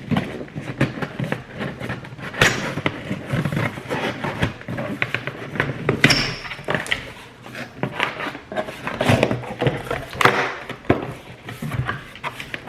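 A box being opened and cake stands unpacked by hand: an irregular run of knocks, clicks and scrapes with rustling packaging.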